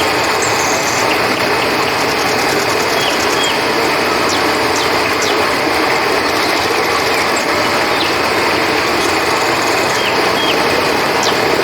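Steady rushing of river water with crickets chirping over it, and a scattering of short high chirps.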